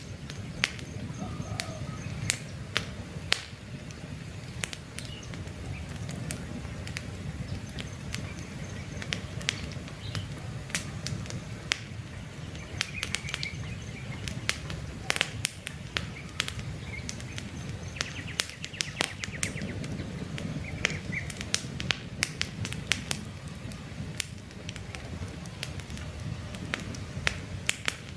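Campfire of burning logs crackling, with frequent sharp pops over a steady low rumble. Faint bird chirps come through now and then, around the middle and again a little later.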